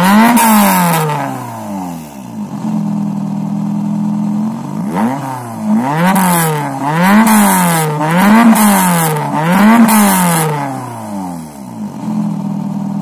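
Peugeot 205's petrol engine revved through its aftermarket exhaust: the revs drop back to idle early on, it idles for a few seconds, then gets a run of quick throttle blips that each rise and fall, and it settles back to a steady idle near the end.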